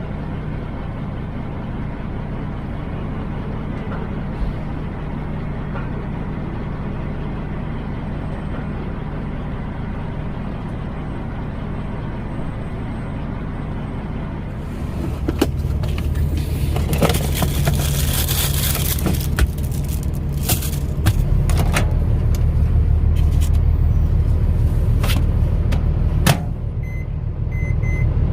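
Semi truck's diesel engine running with a steady low hum. About halfway through it gets louder and busier, with clicks and a short burst of hiss, then grows louder again a few seconds later.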